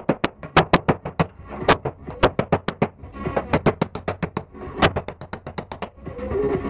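Rapid hammer taps on car-body sheet metal, about six a second in short runs, as a dent is worked out of the panel. Background music plays underneath.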